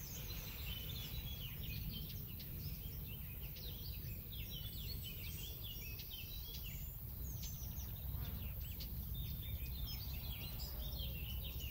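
Several small birds chirping and singing throughout, with quick trills and twitters, over a steady low rumble.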